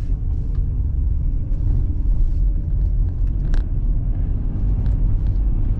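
Steady low rumble of an all-wheel-drive car's tyres and engine heard from inside the cabin while driving on an icy road, with a few faint ticks.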